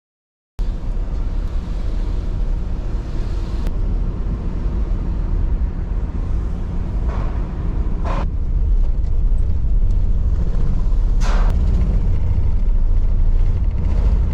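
Motor vehicle running with a steady low rumble that starts suddenly, with two short hisses partway through, about eight and eleven seconds in.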